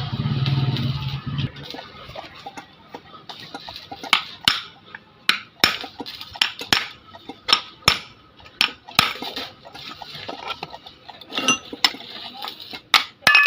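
Sharp, irregular metallic clinks and taps, a dozen or so, as the metal parts and tools of an opened electric-rickshaw motor are handled.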